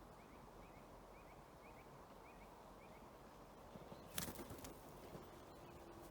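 Faint forest ambience with short bird chirps repeated about twice a second, then a brief cluster of clicks or rustling about four seconds in.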